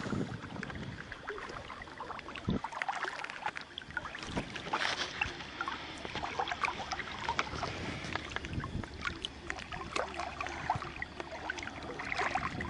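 Water lapping and splashing lightly around an inflatable inner tube floating in shallow water, with many small irregular splashes and drips.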